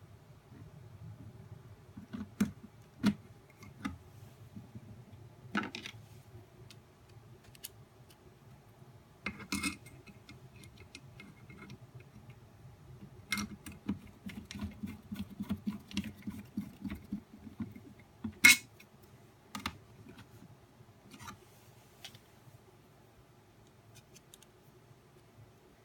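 Parts of a nail dust collector being handled during disassembly or assembly: scattered clicks and knocks of plastic pieces, with a run of quick small taps in the middle and one sharp click about two-thirds of the way through.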